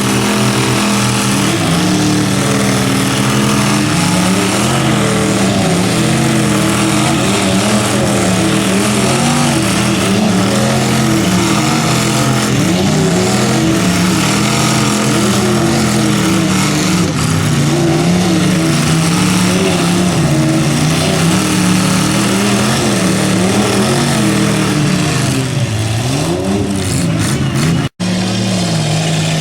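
Pickup truck engines running hard under load in a truck tug of war, their pitch wavering up and down over and over as the trucks pull against each other. Near the end the sound breaks off for an instant and a steadier engine note follows.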